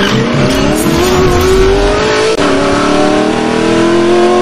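Car engine sound effect accelerating hard: the engine note climbs, dips briefly at a gear change about two and a half seconds in, then climbs again.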